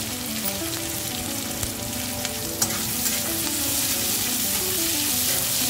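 Onion, garlic and dried red chillies sizzling in hot oil in a steel kadhai, stirred with a wooden spatula, with a single knock about two and a half seconds in.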